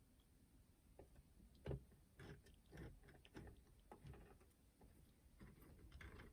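Faint, scattered light clicks and taps of small parts being handled on an opened boombox cassette deck, with one slightly louder knock near the start.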